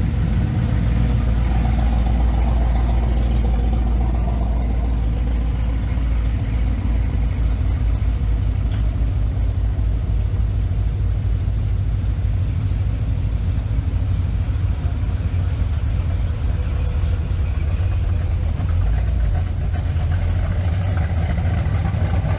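Pickup truck engine running close by, a loud, steady, deep rumble with an even beat to it.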